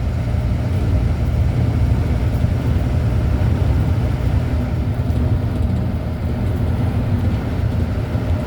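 Steady low drone of a delivery truck's engine and road noise heard from inside the cab while driving.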